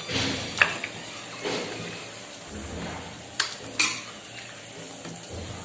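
Mutton curry being stirred in a pot over the heat, the meat and spices frying with a low sizzle just after curd has been added, and the metal spoon clinking against the pot a few times, loudest about three and a half seconds in.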